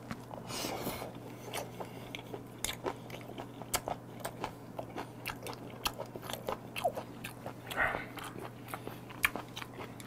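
Close-miked chewing of a mouthful of raw beef and chopped raw octopus (beef-and-octopus tangtangi): a steady run of wet clicks and smacks, with longer, noisier sounds about half a second in and again near eight seconds.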